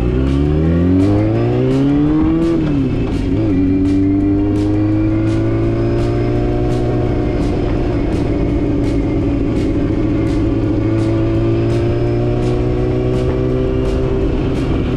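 Motorcycle engine accelerating, its pitch rising for about two and a half seconds, then dropping with a shift into the next gear and settling into a steady cruise. A faint regular tick comes about twice a second throughout.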